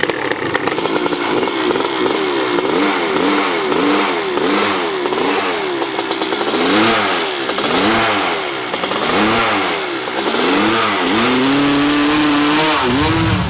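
A hill-climb dirt bike's engine revs up and down over and over as the throttle is worked on the climb. Near the end it holds at high revs for about two seconds.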